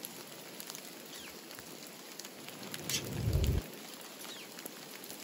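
Steady rain pattering, with many small drop ticks. A brief low rumble comes about three seconds in and cuts off abruptly.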